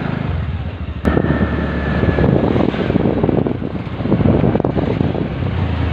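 Motorcycle engine running as the bike rides off, with wind buffeting the microphone. A sharp click about a second in, after which the engine and wind get louder.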